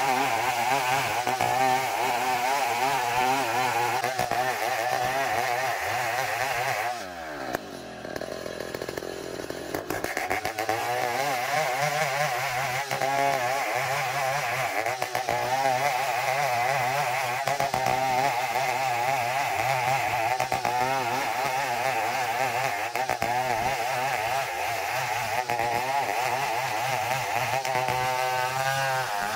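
Two-stroke chainsaw running at full throttle, cutting Borneo ironwood (ulin). About seven seconds in the engine drops to idle for roughly three seconds, then revs back up and runs on steadily.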